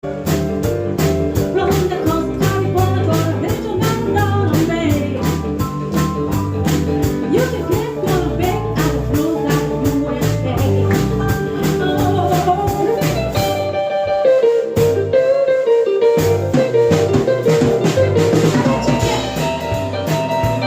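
A band playing: drums keep a steady beat under bass and guitar. About fourteen seconds in, the drums and bass drop out for roughly two seconds, leaving only the higher held notes, then come back in.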